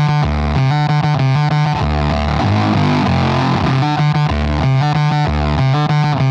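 Electric guitar played through a Walrus Audio Kangra fuzz pedal: a heavily fuzzed riff of quick, changing notes and chords.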